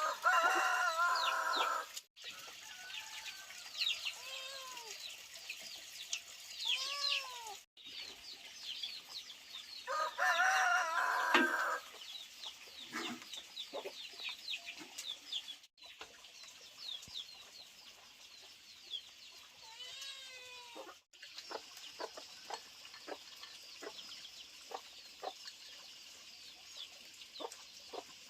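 Chickens: a rooster crowing twice, once near the start and again about ten seconds in, with shorter clucking calls and a lot of high chirping.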